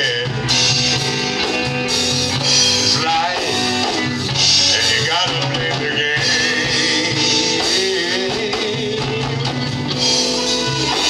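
Live band playing a slow soul ballad, with drum kit, bass and guitar under a gliding lead line.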